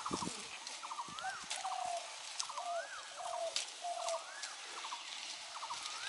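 A bird calling over and over, about once a second: a quick run of clicking notes, then a rising-and-falling whistle, with short lower notes in between. A few sharp crackles sound over it.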